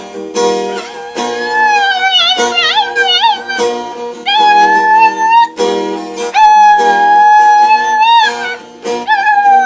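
A dog howling along to a strummed acoustic guitar, its high wavering voice rising into two long held notes over the chords.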